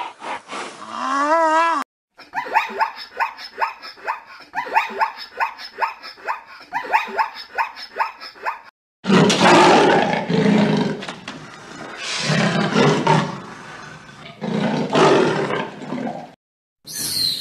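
A short wavering call, then a zebra calling in a rapid run of repeated barking calls, three or four a second. About nine seconds in, a leopard growls and roars in several long, loud bursts.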